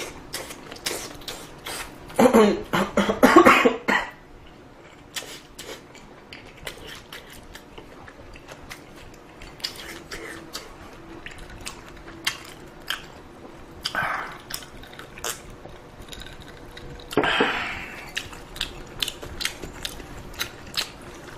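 A person eating ramen close to the microphone: noodles slurped in noisy bursts, the loudest about two seconds in and more around fourteen and seventeen seconds, between many small clicks and taps of utensils and chewing.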